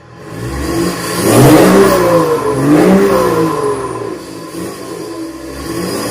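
Diesel car engine revved through a straight-piped exhaust. It blips up and down twice in quick succession, settles back, then revs up again near the end.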